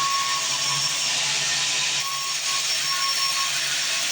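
Band sawmill running with its blade cutting through timber: a steady hiss with a low hum underneath.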